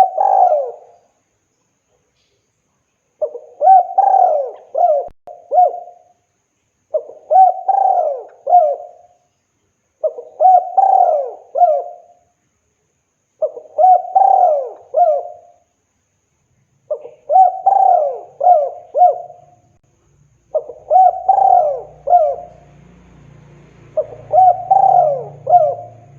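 Spotted dove cooing: a phrase of several rising and falling coos, repeated about every three and a half seconds. It is the advertising call a male in full song gives to call a female.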